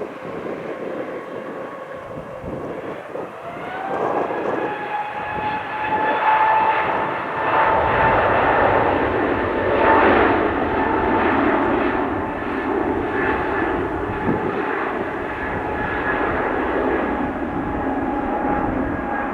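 Airbus A320neo jet engines spooling up for departure: a whine that rises in pitch about four seconds in and then holds steady, joined by a louder jet rumble from about halfway in as thrust builds.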